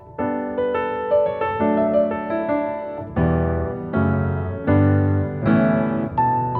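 Piano music: a melody of struck, ringing notes over chords, with deep bass notes joining about three seconds in.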